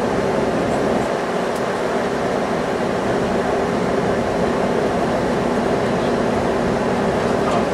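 Steady mechanical drone: an even rush of noise with a low hum beneath it, running without change.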